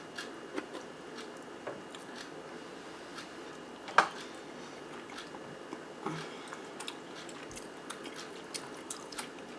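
Close-miked chewing of a mouthful of zucchini boat with ground turkey and melted cheese: soft, wet mouth sounds, with one sharper click about four seconds in.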